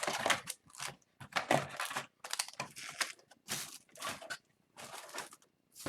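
Plastic wrapping and card packaging crinkling and tearing in a string of short, irregular rustles as a sealed hobby box of hockey cards is opened by hand.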